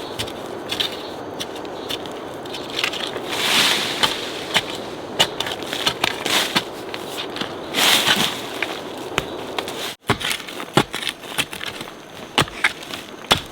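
Irregular crunching, snapping and rustling of dry forest litter and twigs being broken and trampled, over a steady background hiss. The sound drops out briefly about ten seconds in.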